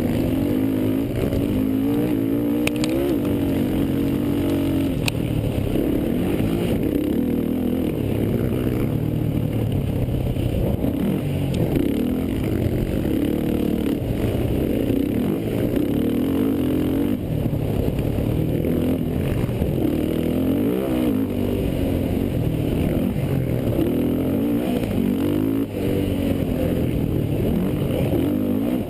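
Racing quad (ATV) engines revving hard, the pitch rising and falling again and again as they accelerate and shift. Two faint sharp ticks about three and five seconds in.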